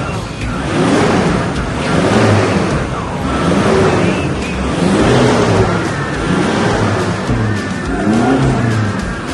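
Toyota Hilux pickup's engine revved again and again through a new custom exhaust. The pitch climbs and falls back about every second and a half.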